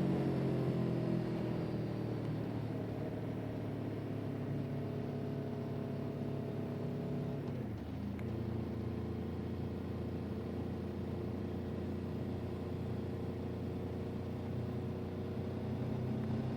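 Motor vehicle engine running while driving. Its pitch sinks over the first seconds, steps up briefly about eight seconds in, then holds steady.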